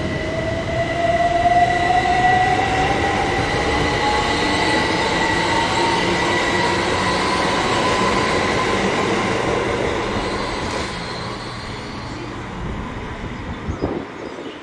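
Passenger train running past on the tracks, its whine rising steadily in pitch over the first several seconds over a steady high whistle and the rumble of the wheels. The sound dies away toward the end, with a few sharp knocks.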